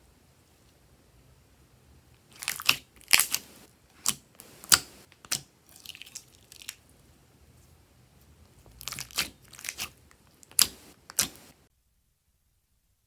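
Crisp crunching and crinkling, heard as two clusters of sharp clicks, one about two to five seconds in and one about nine to eleven seconds in, then dead silence near the end.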